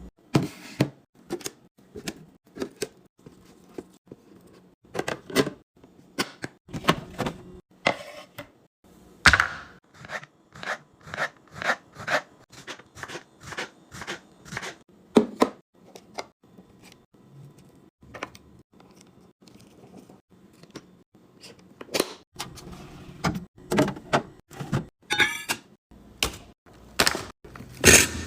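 A long series of irregular clacks and knocks, about one or two a second, as containers and food items are handled and set down while a refrigerator is arranged. The sounds come closer together in the last few seconds.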